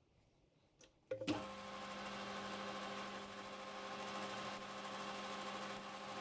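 A click, then a metal lathe's motor switches on about a second in and runs steadily with a constant hum and whine.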